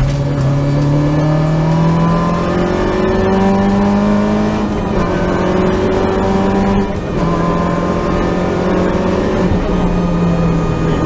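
Peugeot 205 GTi rally car's four-cylinder engine heard from inside the cabin under hard acceleration. Its pitch climbs and steps back at each upshift, with a brief lift about seven seconds in.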